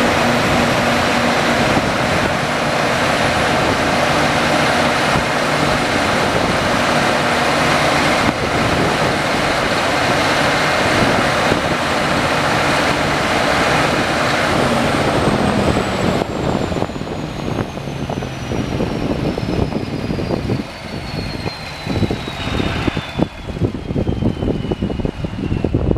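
1020 kW Kohler diesel generator set running loud and steady, then shutting down about halfway through. After that its engine note drops away and a high whine slowly falls in pitch as the machine spins down.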